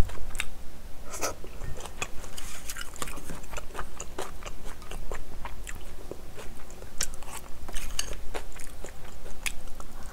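Close-miked mouth sounds of chewing a mouthful of curry rice: irregular clicks and smacks.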